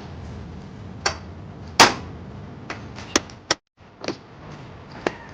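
Hammer blows driving the new lower steering-head bearing race into the steering neck, struck through the old race laid on top of it. There are about seven sharp strikes at uneven intervals, and the loudest comes about two seconds in.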